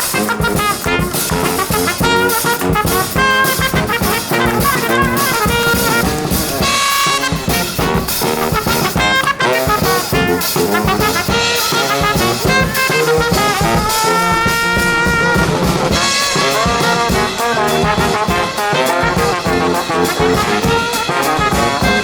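A live brass band playing an up-tempo tune: trumpets and trombones over a steady beat.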